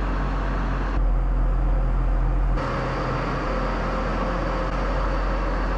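A tractor's diesel engine running steadily with a constant low hum, a little louder for a second or two from about a second in.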